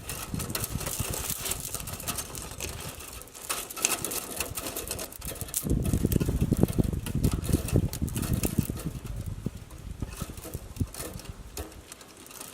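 Metal chain clinking and rattling in irregular bursts of sharp clicks as it is wrapped around a fence post, with a low rumble that swells near the start and again around the middle.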